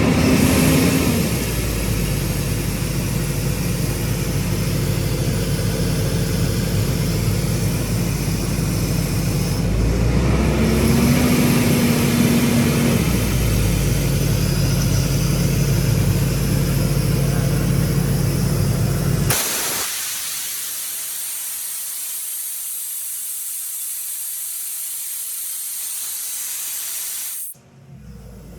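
Mobile air compressor's four-cylinder Cummins diesel running steadily under a hiss of air. About two-thirds of the way through the engine sound drops away suddenly, leaving only the hiss, which cuts off abruptly near the end.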